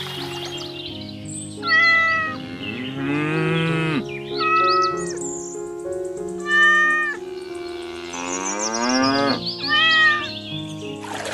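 Four short, loud cat-like meows, spaced a couple of seconds apart, over steady background music with two long rising sliding tones.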